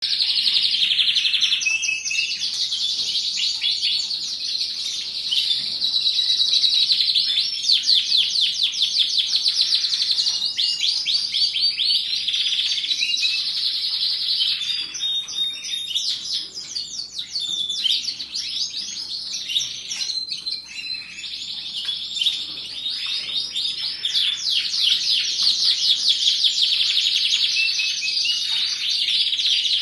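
Domestic canary singing a long continuous song of rapid trills and rolling chirps, with only brief pauses.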